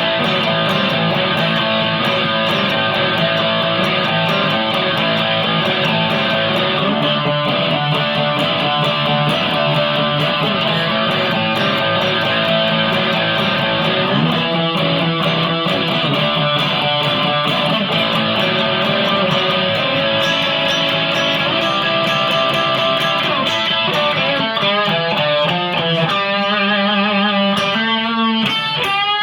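Guitar music, with electric guitar playing, loud and steady; near the end the notes turn fast and wavering.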